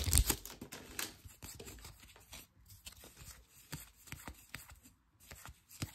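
Trading cards being handled and flipped through, with light scattered clicks and the slide of card stock against card stock, after a foil pack wrapper's crinkle fades at the very start.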